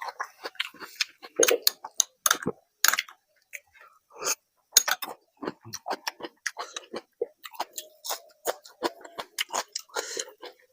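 Close-miked eating of a curry-and-rice meal: irregular wet chewing and lip-smacking clicks, several a second.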